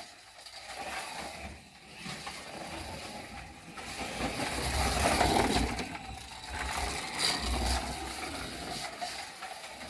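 Slot car truck lapping the track, its small electric motor whirring and the guide and wheels running in the slot, the sound rising and falling as the car goes round the layout.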